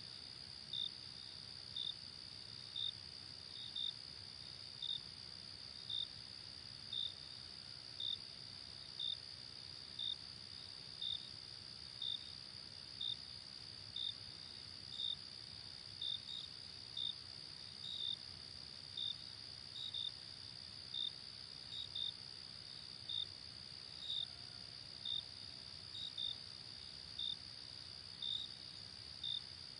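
Night insects: a steady high-pitched trill with a short chirp repeating about once a second, over a faint low hiss.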